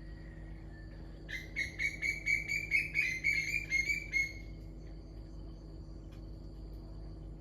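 A songbird singing a quick run of clear, repeated whistled notes for about three seconds, starting about a second in, over a steady high trill of insects.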